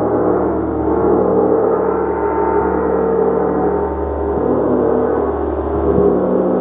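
Gong being played continuously in a sustained, shimmering wash of many overlapping tones, swelling and easing in slow waves, with the deep hum underneath staying steady.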